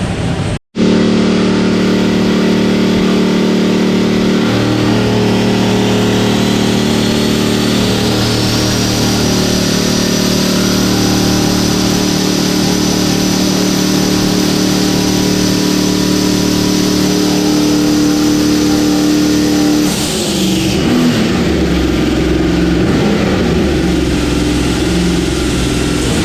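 Twin-turbo LS V8 drag car running on the chassis dyno at steady high revs, a turbo whine rising over a few seconds and then holding. About twenty seconds in it lets off with a sudden rush of air and drops back to a lumpy, rough low-speed run.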